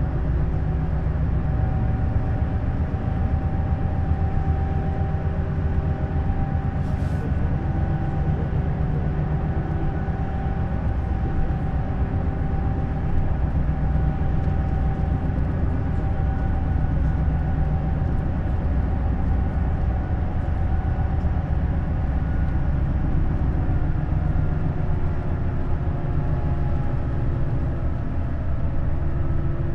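Neoplan Skyliner N 1122/3C double-deck coach driving at a steady speed: a continuous low engine and road rumble with a steady whine over it.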